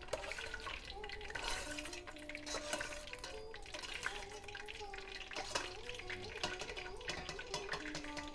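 Food frying in hot oil in a pan, a steady sizzle with many small crackles and pops, over soft background music with a slow melody of held notes.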